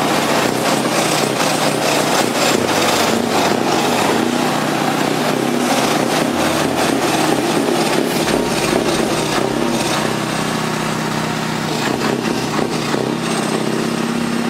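Scania R620's V8 diesel truck engine running steadily, its note shifting a little about two-thirds of the way through.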